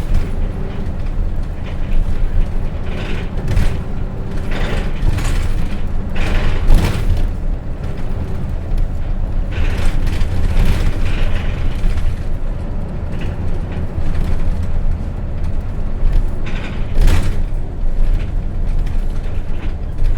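Ride inside a Hino Rainbow RJ city bus on the move: the J08C six-cylinder diesel runs with a steady low rumble while the body and fittings rattle and creak, with bursts of clatter several times.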